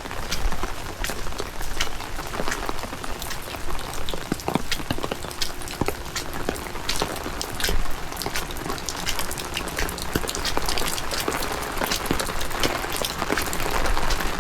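Steady rain, with many sharp, irregular ticks of raindrops striking close by over the hiss of the downpour. A faint steady hum joins in about a third of the way through.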